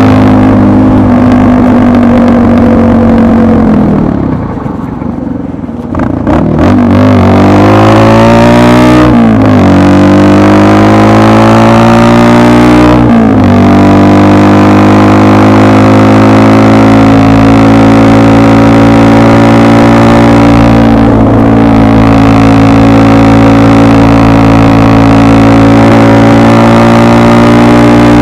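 Motorcycle engine: it drops off about four seconds in, then accelerates through two gear changes, its pitch rising and dropping sharply at each shift, and holds a steady pitch from about thirteen seconds on.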